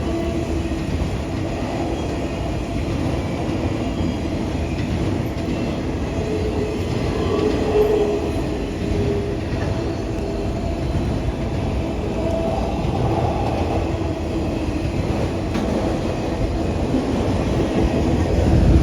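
A train rolling steadily past, its wheels rumbling on the rails, with faint held tones above the rumble.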